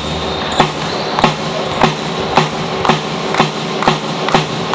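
Supporters keeping a steady rhythmic beat in a sports hall, about two sharp strikes a second, over the steady hum of the hall.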